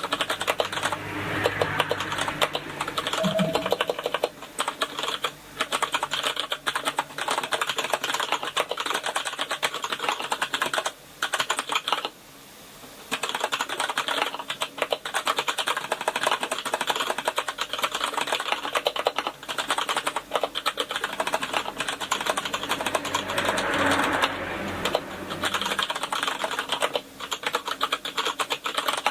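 Fast, continuous typing on a KINESIS Advantage contoured keyboard with Cherry MX Brown tactile switches: a dense run of key clicks that pauses briefly about twelve seconds in, then carries on.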